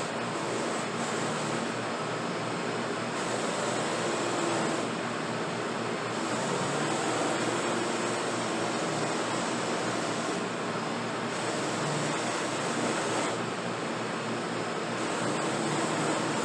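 A steady rushing noise, with a brighter hiss that comes and goes every few seconds.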